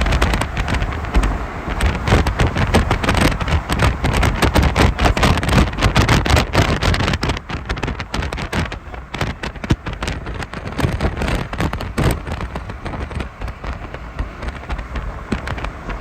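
Heavy storm rain pelting a hard surface in dense, sharp hits over a low rumble. The hits thin out about halfway through.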